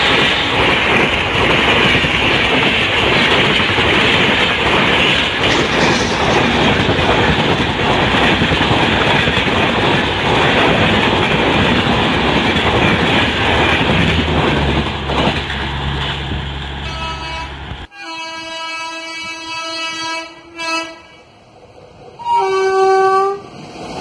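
Express train coaches passing at speed, a steady loud rolling rush of wheels on rail. About two-thirds of the way in it cuts off, and a WAP7 electric locomotive's multi-tone air horn sounds twice: one long blast, then a shorter, lower one.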